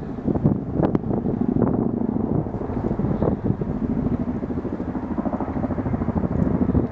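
Boeing CH-47F Chinook tandem-rotor helicopters on approach: a steady, rapid rotor chop over a low engine drone.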